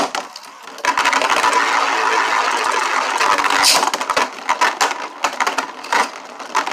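Beyblade spinning tops launched with a sharp ripcord rip, then whirring and clashing in a plastic stadium. A dense steady whir gives way to a run of sharp clacks as the tops hit each other and the stadium walls.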